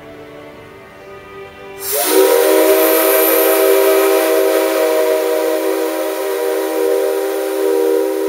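Whistle of JNR Class C57 steam locomotive No. 135 sounding about two seconds in: one long, loud chord of several steady tones over a hiss, sliding briefly up to pitch as it opens. Before it starts, only quieter music plays.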